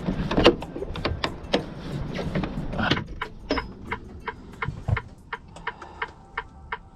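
Semi truck on the move: rapid, irregular rattles and clicks from the cab over a low engine and road rumble. Everything gets quieter about three seconds in.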